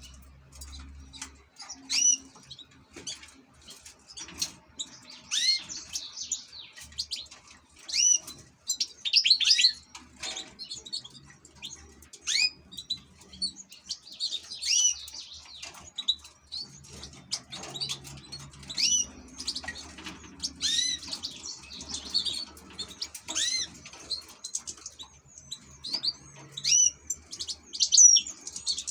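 European goldfinch singing: a continuous run of fast twittering, laced with short hooked notes repeated every second or two.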